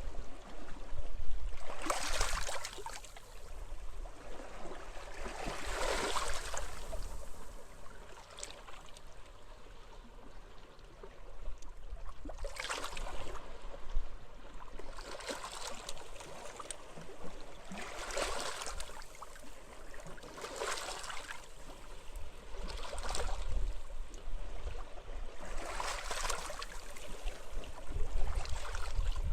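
Small sea waves breaking and washing up the shore, a splash every few seconds, over a steady low rumble of wind.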